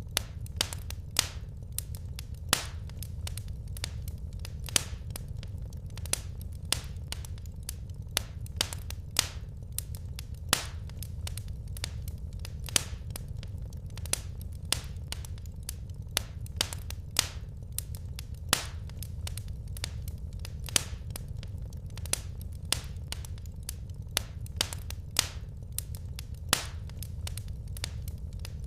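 Wood fire crackling: frequent sharp pops and snaps at irregular intervals over a steady low rumble of burning logs.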